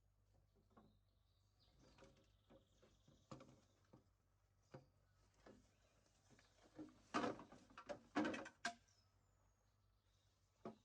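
Faint scattered knocks and rustles, louder for a couple of seconds about seven to nine seconds in, with small birds chirping in the background.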